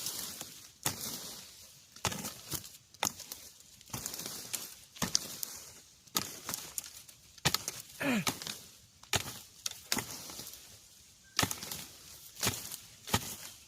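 Repeated chopping blows of a digging tool into earth and roots while digging out a bamboo shoot: a dozen or so sharp strikes, roughly one a second at an uneven pace, with rustling in between.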